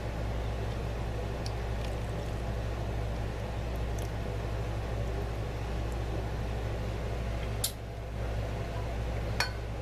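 Steady low hum with an even hiss, broken by two sharp clicks, one near the end and one just before it.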